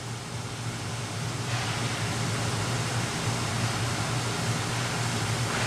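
Steady ice-rink background noise during a hockey game: an even hiss with a constant low hum underneath, the hiss growing slightly stronger about a second and a half in.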